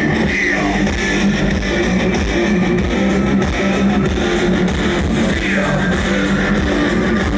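Industrial metal band playing live at full volume: heavy distorted electric guitars over bass and drums, steady and dense throughout.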